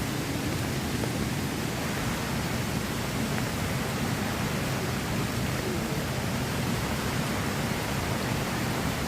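A steady, even rush of water noise with no pauses or separate events.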